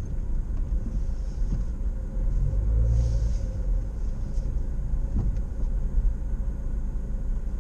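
Low steady rumble of road traffic, swelling about two to three seconds in as a car goes by.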